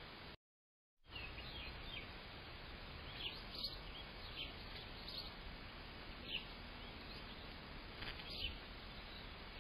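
Short, high bird chirps, one every second or so, over a steady hiss from a security camera's microphone. The sound drops out completely for about half a second near the start.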